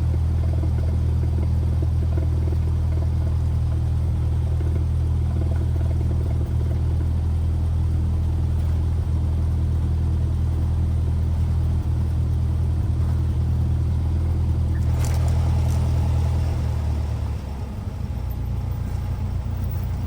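Cessna 172R's four-cylinder Lycoming engine running at low power, a steady low drone in the cockpit. About seventeen seconds in, the drone drops slightly lower and quieter.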